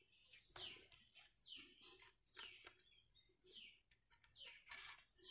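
A bird calling over and over: short, faint chirps that slide downward in pitch, about two a second, with a brief pause midway.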